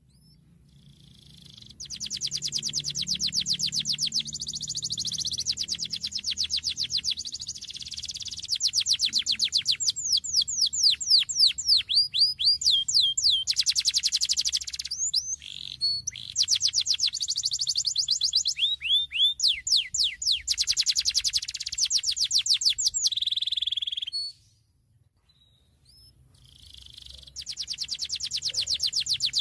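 Domestic canary singing a long, fast song of rapid trills and quickly repeated rising and falling notes. It breaks off for about two seconds near the end, then starts singing again.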